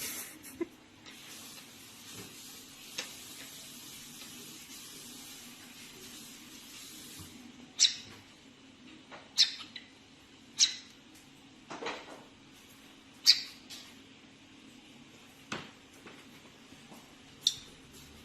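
A pet parrot giving short, sharp, high calls, seven of them spaced a second or two apart, after a steady hiss in the first several seconds.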